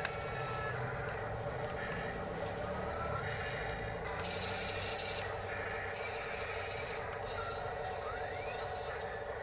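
Steady whine of small electric motors and gearboxes in radio-controlled construction models working, with a brief rising tone near the end.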